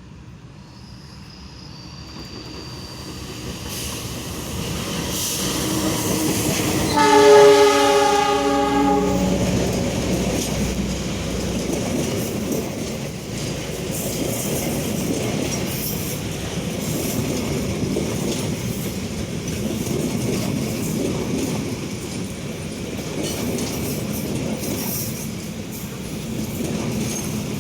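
A train approaching, growing louder, then sounding its horn once for about two seconds, several tones at once. It then passes with a steady rumble and wheel clatter on the rails.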